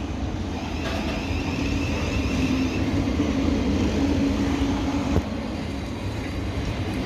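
Electric passenger train running: a steady low rumble with a hum. A thin high whine sounds for about two seconds near the start, and there is a single click about five seconds in.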